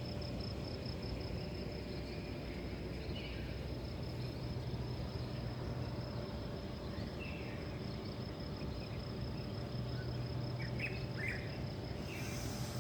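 Crickets trilling steadily in a continuous high-pitched pulsing chirr, with a few short bird chirps here and there, over a low steady background hum.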